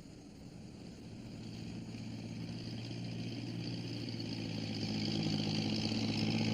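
Engine of a log-lifting forestry machine approaching, a steady low hum growing louder from about a second in.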